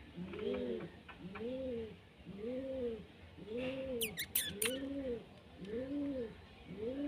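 A bird giving a low coo over and over, about once a second, each note rising and falling in pitch. About four seconds in, a quick run of sharp, high whistled notes from another bird cuts in over the cooing.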